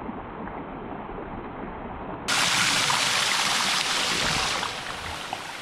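Rushing water of a small waterfall and creek, a steady hiss. About two seconds in it jumps suddenly much louder and brighter, then eases back down near the end.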